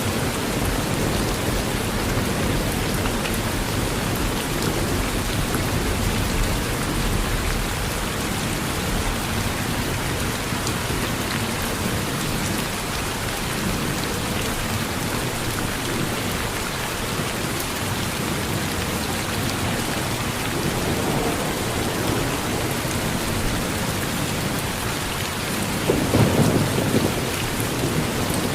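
Steady rain falling on a porch during a thunderstorm, an even hiss of drops, with low distant thunder rumbling at the very start and a louder swell of thunder near the end.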